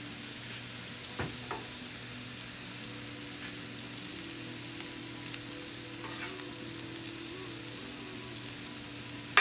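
Sliced onions and mushrooms sizzling steadily on a Blackstone flat-top griddle. A couple of light clicks come about a second in, and a sharp knock at the very end.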